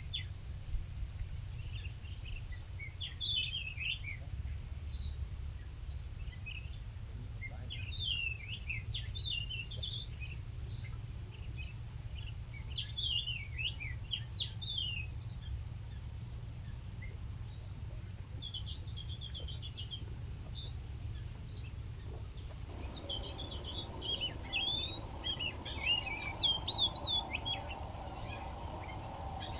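Small songbirds chirping and calling in quick, short notes, on and off throughout, over a steady low background rumble.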